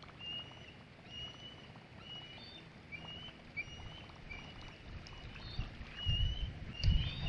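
A bird calling over and over: short, high chirps about once a second at much the same pitch, with a few higher notes among them. About six seconds in, a low rumble rises underneath.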